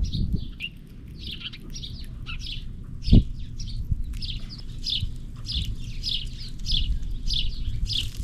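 Small birds chirping: a quick run of short, downward-sliding chirps, two or three a second and thicker toward the end, over a low rumble. A single thump comes about three seconds in.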